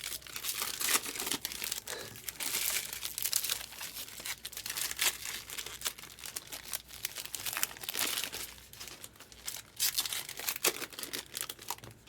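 Foil wrappers of trading card packs crinkling and tearing as packs are ripped open and handled, a dense run of crackles throughout.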